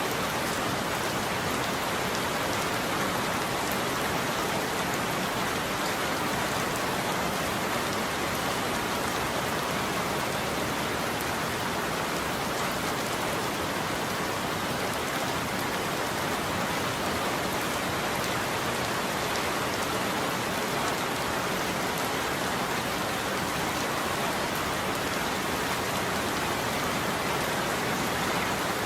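Steady heavy rain falling on a surface, an even unbroken hiss with no thunder or change in level.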